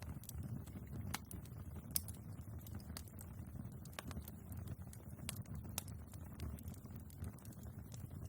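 Wood fire burning in a fireplace: a low steady rumble of the flames with irregular crackles and pops from the logs, the sharpest pop about two seconds in.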